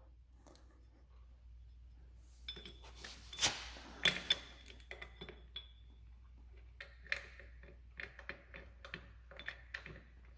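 Small metal parts and hand tools clinking and tapping against each other: scattered sharp clicks, a few with a short metallic ring, over a low steady hum.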